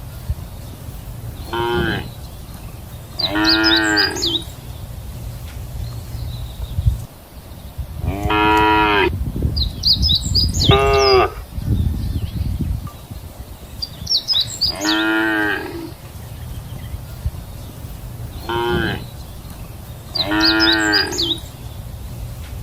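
Cattle mooing repeatedly, about seven calls that come roughly in pairs, a short low moo followed by a longer one. Thin high chirps sound over several of the longer calls, with a steady low rumble underneath.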